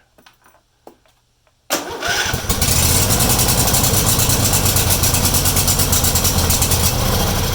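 Husqvarna YTH2148 riding mower engine starting about two seconds in, then running steadily. The starter now turns freely, with the acorn that had jammed its drive gear cleared out.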